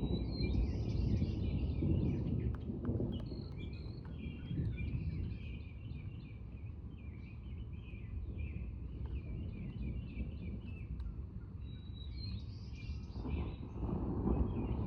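Songbirds chirping and calling busily over a low rumble of distant thunder, which fades after the first couple of seconds and swells again near the end.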